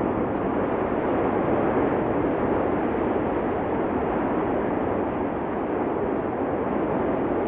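Steady, continuous roar of the Cumbre Vieja fissure eruption, an even rushing noise with no breaks.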